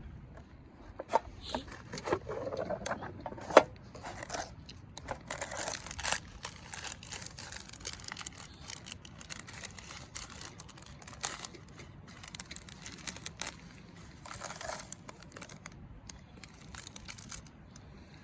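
Plastic packaging crinkling and being torn open, in irregular rustles with sharp clicks and snaps; the loudest snap comes about three and a half seconds in.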